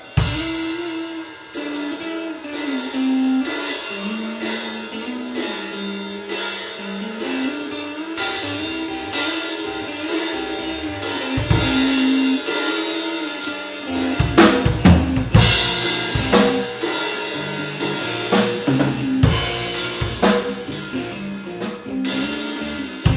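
Drum kit and electric guitar playing an improvised fusion-blues groove: cymbal strokes keep a steady beat over a stepping guitar line, with a louder stretch of bass drum and snare hits about two-thirds of the way through.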